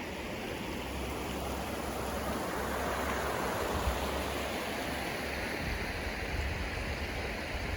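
A river running: a steady rush of flowing water that swells slightly about three seconds in.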